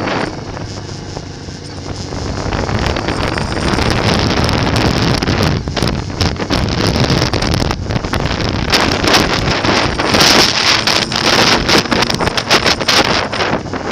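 Motorcycle engine noise with heavy wind buffeting the microphone, growing louder and gustier after a couple of seconds.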